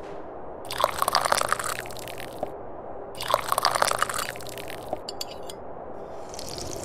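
Tea being sipped with a slurp, in two long sips of about two seconds each, followed by a brief run of quick clicks and a fainter sip near the end.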